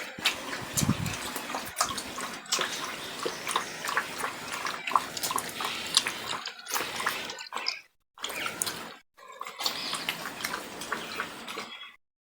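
Puppies suckling from their mother dog: a busy run of small wet sucking and smacking clicks, broken by short silent gaps.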